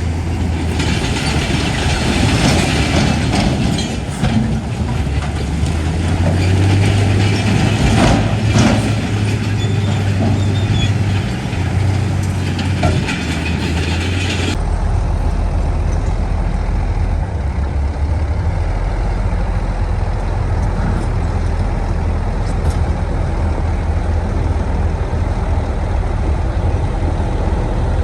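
Heavy diesel earthmoving machinery (bulldozer and dump truck) working, with the engine running under load, and hissing and clanking from stone and soil being moved. About halfway through the sound switches abruptly to a steadier, lower engine sound with less hiss.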